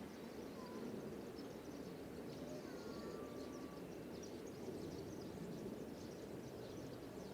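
Faint, steady outdoor background rumble with scattered high bird chirps and a few short whistle-like calls.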